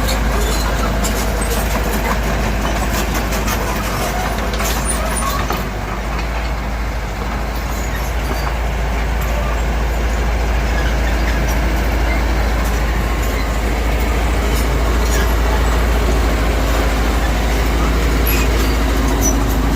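Diesel engine of a Mitsubishi BD2G crawler bulldozer running steadily at work, with scattered sharp metallic clicks in the first few seconds and again near the end.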